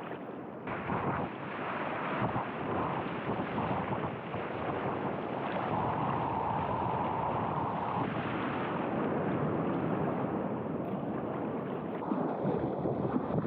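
Ocean surf and rushing water, with wind buffeting the microphone.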